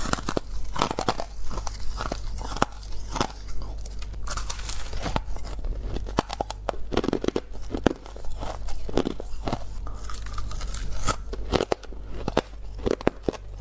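Ice being bitten and crunched between teeth close to the microphone: many sharp, irregular crunches.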